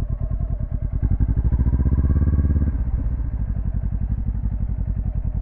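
Motorcycle engine running at low revs with the clutch feathered for a slow, tight turn. The revs rise briefly about a second and a half in, then drop back about a second later.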